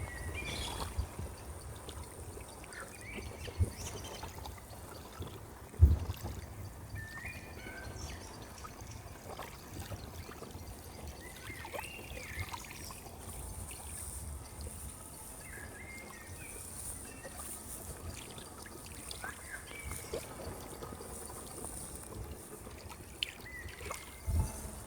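Outdoor water ambience: water trickling steadily, with scattered short bird chirps throughout. There are two sharp thumps, the louder about six seconds in, and a faint steady high hiss joins about halfway.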